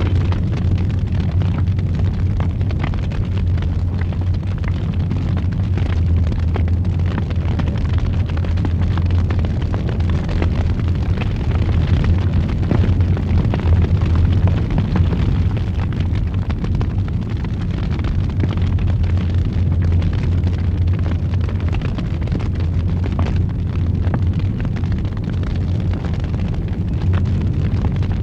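Wood fire in a fireplace, roaring steadily with a deep low rumble and frequent small crackles and pops.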